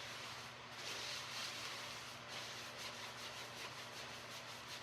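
Hands scrubbing shampoo through wet hair: a soft, quick, repeated rubbing. A low steady hum runs underneath.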